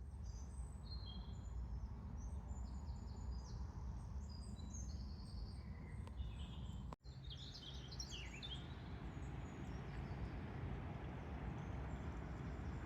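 Several small songbirds chirping and trilling in quick high calls over a low steady rumble. The sound drops out for an instant about seven seconds in, and a burst of falling chirps follows just after.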